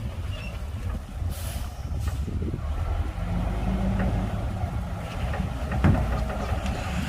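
Komatsu D58P bulldozer's diesel engine running with a steady low rumble, with a few metallic clanks from the machine about six seconds in.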